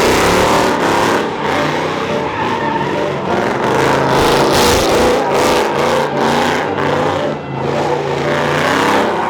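Car engines revving hard while tires spin and squeal, skidding on pavement, continuously and loudly.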